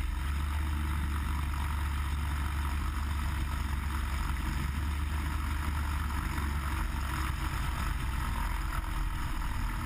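Cessna 180's six-cylinder Continental O-470 engine and propeller running steadily: a constant low drone with a hiss above it.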